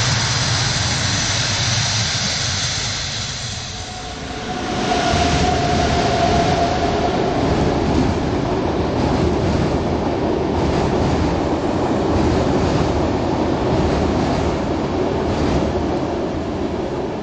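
Electric passenger trains running past on the rails: the steady rumble of coaches rolling by, with the wheels clicking over rail joints at a regular beat. About four seconds in, the sound briefly fades and comes back in a different character.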